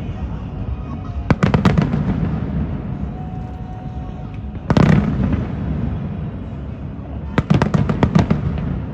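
Fireworks bursting: a quick run of bangs about a second in, a single big bang in the middle, and another rapid volley of bangs near the end, each followed by a rumbling echo.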